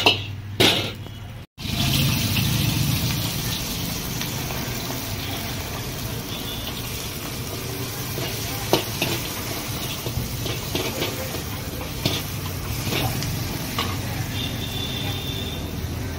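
Steady hiss of food frying in a wok, starting after a short break about a second and a half in, with a few sharp knocks scattered through it.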